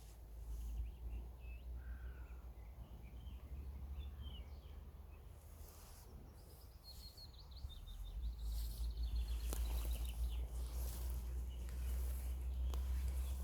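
Small songbirds chirping over a low, steady rumble. A rapid trill of high repeated notes comes about seven seconds in.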